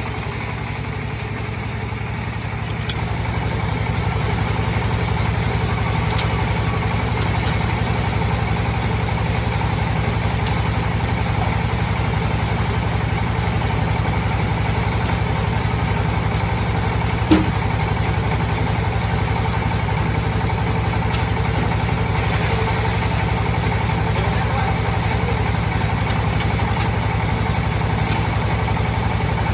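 Sawmill bandsaw machine running steadily, getting louder about three seconds in, with a single sharp knock a little past halfway.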